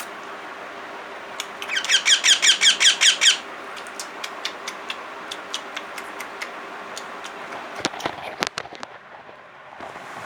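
A parrot gives a rapid string of about ten shrill calls in under two seconds, followed by a scattering of sharp clicks.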